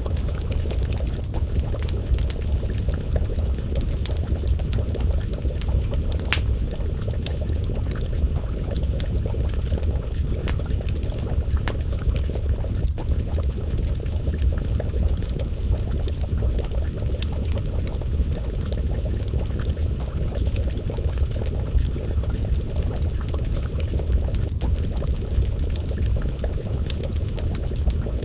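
Wood fire crackling with frequent small sharp pops over a steady low rumble, mixed with a pot of stew bubbling at a simmer.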